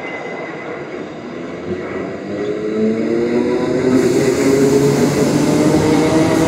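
South West Trains electric multiple-unit train passing close by, its rumble growing louder, with a motor whine that rises slowly in pitch over the last few seconds.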